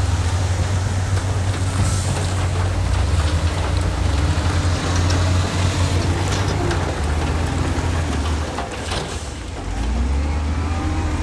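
Heavy diesel earthmoving machinery engine running steadily under load, with scattered short metallic clanks. The engine eases off briefly about nine seconds in, then revs back up.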